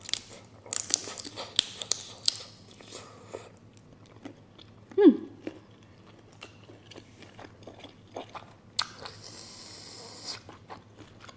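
Close-up chewing and biting of a cooked prawn, with quick crunchy clicks in the first few seconds. About five seconds in there is one short falling vocal "mm", and near the end about a second and a half of breathy hiss of air.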